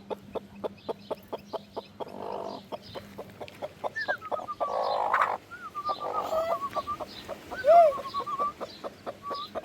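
Chickens clucking and calling, with wavering calls from about four seconds in and a louder call near the end, over a quick run of sharp clicks, about five or six a second.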